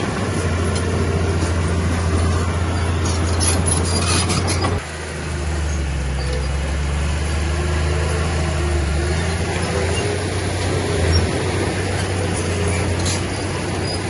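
Heavy diesel engine of earthmoving machinery running steadily, with a few light metallic clinks; about five seconds in its note drops abruptly to a lower hum.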